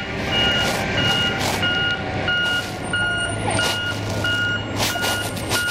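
Truck reverse alarm beeping loudly and steadily, a little under two beeps a second, over the low hum of the truck's engine.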